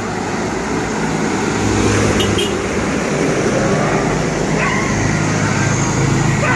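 Medium truck's engine running as it drives past, a steady low drone growing slowly louder.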